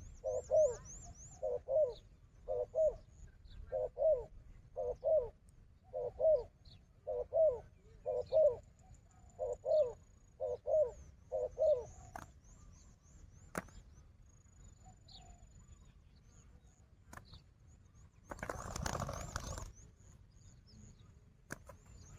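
Spotted dove cooing: a series of about a dozen short, low, doubled coo notes, repeated roughly once a second, that stops about twelve seconds in. Thin high chirps sound faintly behind it, and about eighteen seconds in there is a brief loud burst of noise, like wings flapping.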